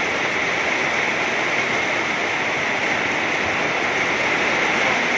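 Heavy rain pouring down, a dense, steady hiss that does not change.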